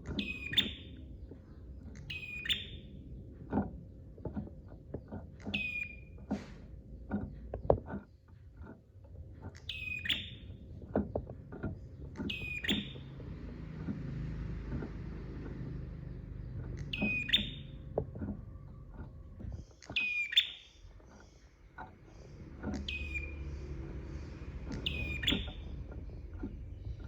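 Prenjak (prinia) calling repeatedly, about nine sharp calls two to four seconds apart, each a quick downward note that settles into a short level tone. Many quieter clicks and ticks run underneath.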